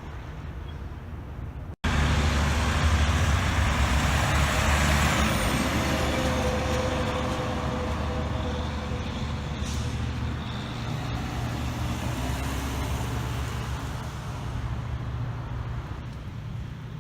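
A heavy truck's engine running close by, cutting in suddenly about two seconds in, with a hiss over it in the middle, then slowly fading.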